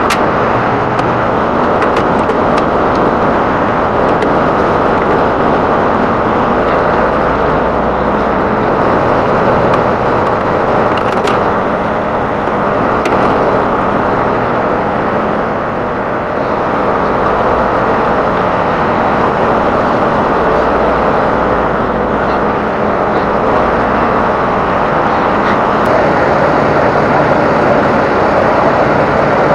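Steady vehicle running noise, a constant rush of engine and road sound that dips briefly about halfway through.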